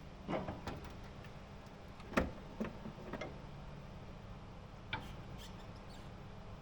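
A few short, sharp clicks and knocks at irregular intervals, bunched in the first three seconds with one more near five seconds; the loudest comes about two seconds in.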